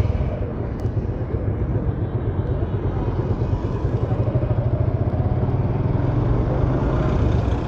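Suzuki Gixxer motorcycle's single-cylinder engine running steadily while the bike is ridden, with a fast, even pulsing beat.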